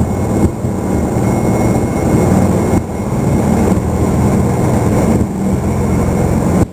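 Steady rumble of a Vickers VC10's four Rolls-Royce Conway jet engines and airflow heard on the flight deck during take-off, with a couple of brief dips in level.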